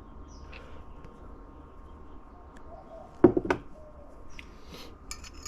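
Small metal transmission parts being handled: a sharp double knock about three seconds in and a few faint clicks near the end, over a low steady hum.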